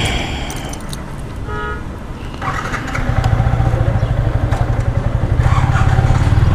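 Yamaha R15's single-cylinder engine running while riding in traffic, getting louder about three seconds in. A short vehicle horn toots about a second and a half in.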